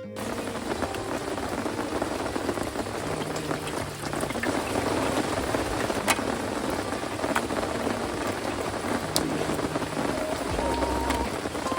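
Rain falling steadily: a dense patter and hiss, with a few sharp clicks of drops or crackles.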